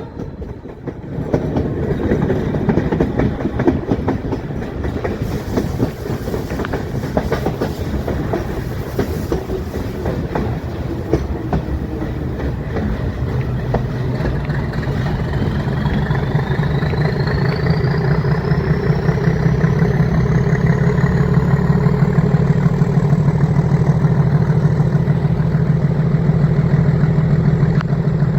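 Metre-gauge train running, its wheels clattering over the track. About halfway through, the YDM-4 diesel locomotive's engine grows louder with a steady low throb, and a thin high whine rises in pitch over several seconds and then holds.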